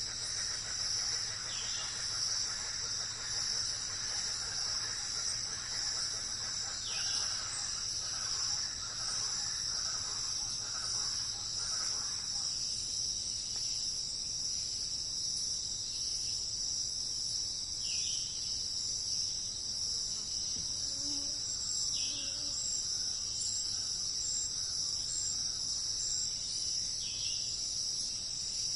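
Steady, high-pitched insect chorus with an unbroken trill. A few short, falling bird calls come in every few seconds.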